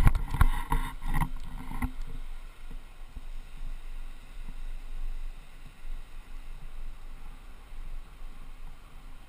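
Rushing river water, with loud rumbling noise on the microphone for about the first two seconds before settling to a steady, fainter rush.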